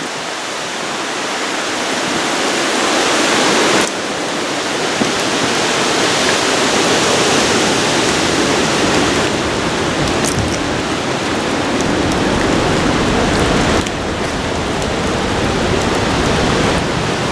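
Hurricane-force wind and heavy rain: a loud, dense, steady rush, roaring like a beast, that drops abruptly in level about four seconds in and again near fourteen seconds.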